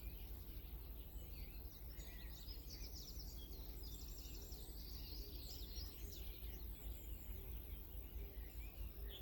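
A small songbird singing a rapid, high-pitched twittering song of quick chirps and trills, starting about a second and a half in and stopping near the end, over a low steady background rumble.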